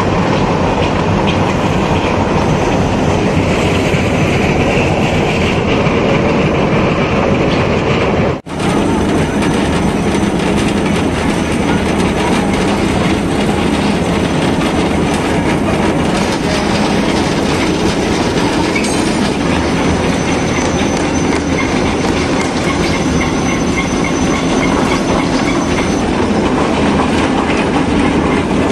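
A rail-panel train of flat wagons running along the track, heard from on board one of the wagons: a loud, steady rattle of wheels on rails with clickety-clack and some wheel squeal. It drops out for an instant about eight seconds in.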